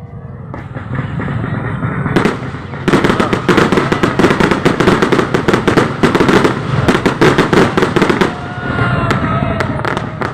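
Fireworks display: a dense, rapid crackling of many bursting shells and firecrackers. It builds over the first few seconds, is densest from about three to eight seconds in, then thins, with a few whistles near the end.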